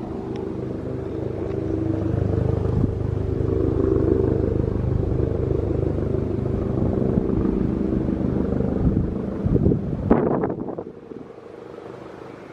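Helicopter rotor and engine running steadily, with a fast low chop under a steady whine. It grows a little louder, then drops away sharply about ten seconds in, after a few uneven gusts of noise.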